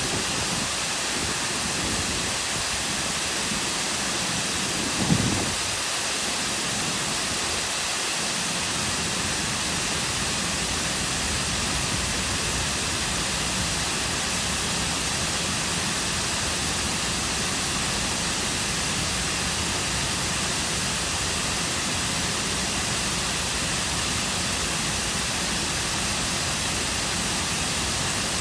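Cascading waterfall pouring into a lake, a steady, even rush of water. About five seconds in there is a single brief low thump.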